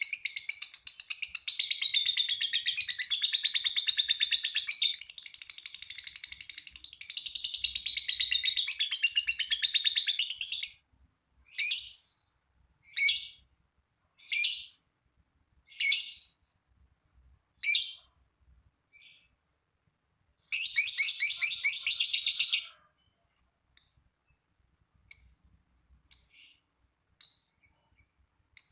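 A lovebird's long, rapid, high-pitched chattering song ("ngekek") runs without a break for about ten seconds. Then come single sharp chirps about once a second, a second short burst of chatter, and more spaced, fainter chirps.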